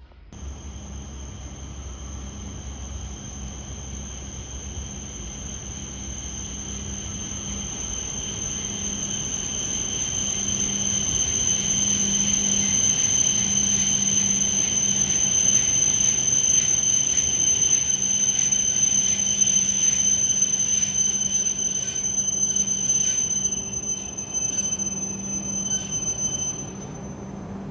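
E5 series Shinkansen train pulling in and braking, with a steady high-pitched brake squeal over the running rumble. The sound grows louder as the train approaches, and the squeal cuts off near the end as the train comes to a stop.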